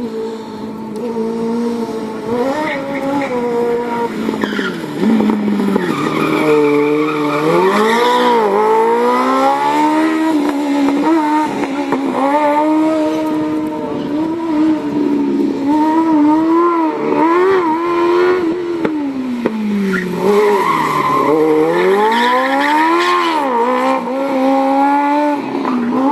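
Smart Fortwo's swapped-in Kawasaki Ninja motorcycle engine revving hard, its pitch climbing and dropping again and again as the car accelerates, lifts off and shifts, with tyres squealing at times.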